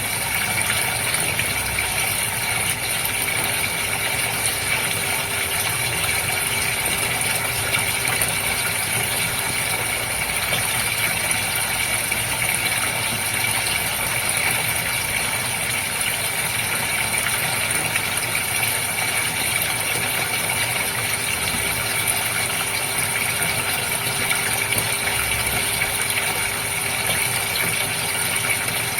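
Goldfish aquarium water running steadily under a constant mechanical hum from its pump.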